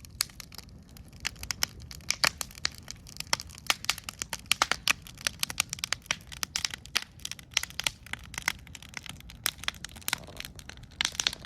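A wood fire crackling and popping: sharp irregular snaps over a low steady rumble, thickest from about two seconds in to about five seconds and again near the end.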